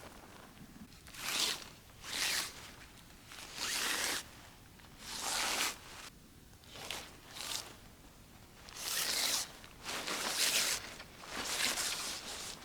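A zipper pulled in about ten short rasping strokes, unevenly spaced.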